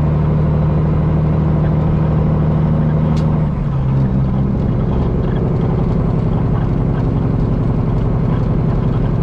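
Peterbilt semi truck's diesel engine running steadily, heard from inside the cab. A sharp click a little over three seconds in, then the engine note drops and settles at a lower pitch.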